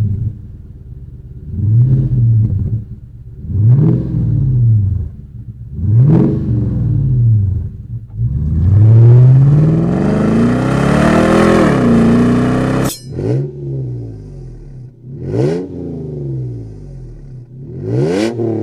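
Toyota pickup engine through a Pypes stainless cat-back exhaust, revved repeatedly. There are short throttle blips about every two seconds, then a longer rev that climbs and holds for several seconds before breaking off sharply, then more quick blips.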